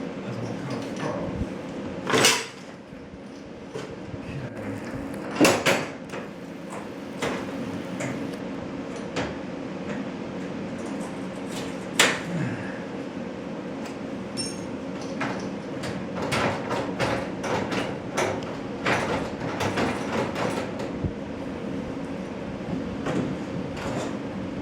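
Irregular knocks, clanks and rattles of garage door panels and hardware being handled during installation, with three louder bangs and a busier run of clicking in the second half, over a steady low hum.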